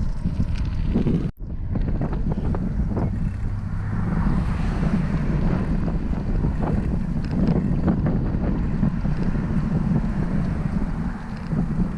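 Wind buffeting the microphone on a moving bicycle, a steady low rumble mixed with road noise, which swells for a couple of seconds near the middle. The sound cuts out for an instant about a second in.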